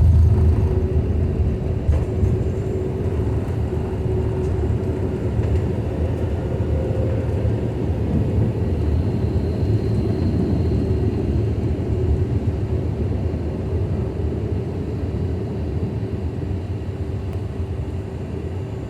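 Bombardier CRJ900 regional jet's twin GE CF34 turbofans running during the climb-out after takeoff: a steady rumble with a constant hum in it, slowly getting quieter.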